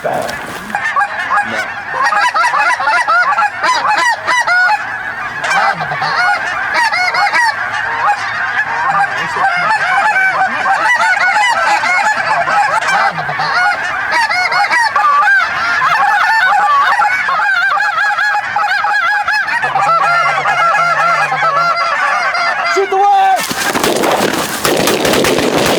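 A large flock of lesser Canada and snow geese honking and calling over one another without a break. Near the end a rapid volley of shotgun fire breaks out, many shots close together.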